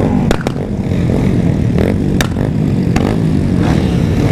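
Several remapped sport motorcycles running loudly together, a dense engine drone with a few sharp exhaust pops cracking over it.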